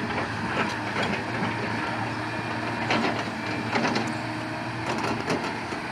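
Crawler excavator's diesel engine running steadily, with irregular knocks and creaks from the machine as it works.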